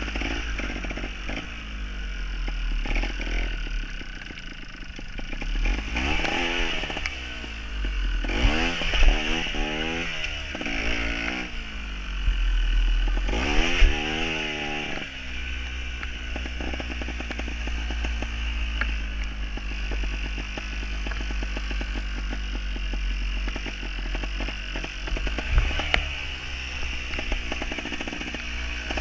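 Gas Gas TXT 270 trials motorcycle's two-stroke single-cylinder engine being ridden: its pitch sweeps up and down in several quick blips of the throttle in the first half, then it runs steadily at lower revs.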